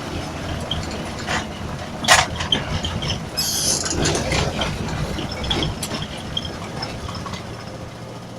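Moskvich car engine running on LPG while the car drives on, a steady low rumble. Several sharp knocks and rattles sound over it, the loudest about two seconds in.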